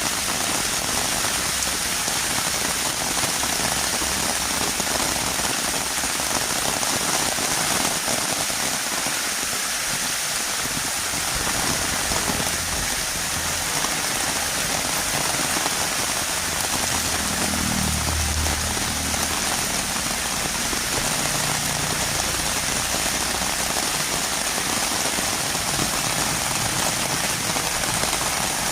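Heavy rain falling steadily in a dense, even hiss, with a brief low rumble about two-thirds of the way through.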